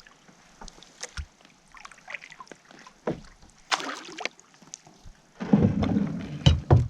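Kayak being handled at the water's edge: scattered light knocks and splashes, then a louder stretch of rough scraping and bumping in the last second and a half.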